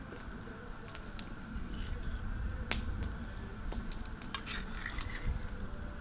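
Scattered light clicks and crackles, the sharpest about three seconds in, over a steady low wind rumble on the microphone.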